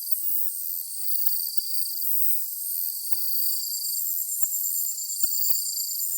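Chorus of summer-evening insects: several high trills and pulsed chirping calls at different pitches, overlapping and going on steadily, one or another pausing and starting again. It is all high-pitched, with no low sound beneath it.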